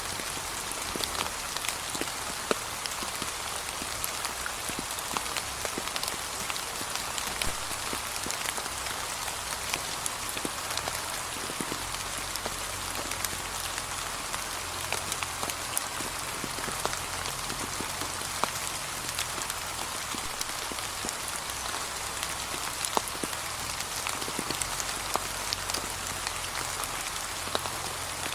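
Steady light rain, with a continuous hiss and many separate drops ticking on wet fallen leaves.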